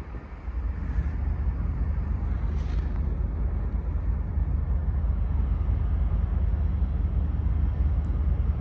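Diesel freight locomotives running with a steady low rumble, which gets louder about half a second in and then holds level.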